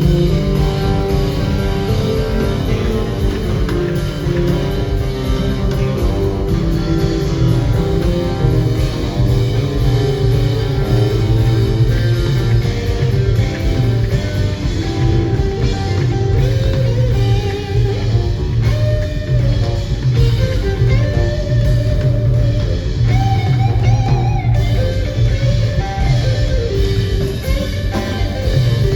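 Rock band playing live: electric guitar lines over bass guitar and drum kit, loud and continuous.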